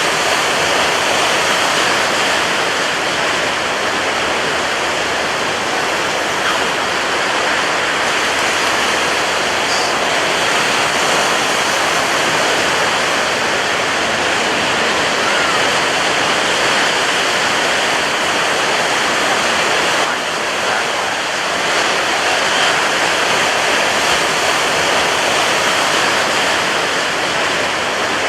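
Ocean surf breaking on a beach: a dense, steady rush of churning water with no distinct separate wave crashes.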